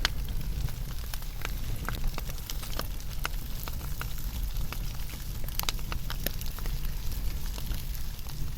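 Wood fire burning, with irregular sharp crackles and pops from the burning wood over a steady low rumble of the flames.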